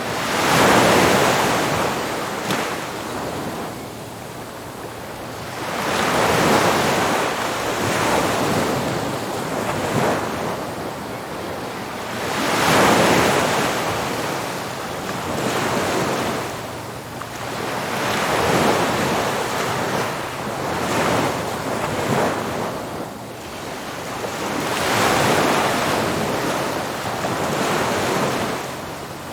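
Ocean waves breaking on a beach, the surf rising and falling in swells about every six seconds.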